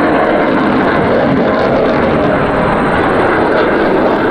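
Steady jet noise from F-15 Eagle fighters' twin turbofan engines.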